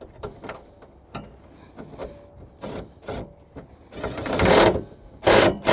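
Ratchet wrench clicking in short runs as bolts are tightened on a tractor seat bracket, with light metal clinks, then a louder scraping noise a little after four seconds and again near the end.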